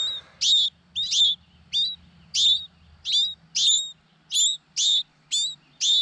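Fledgling songbirds begging for food: short, high chirps repeated about twice a second as they are hand-fed.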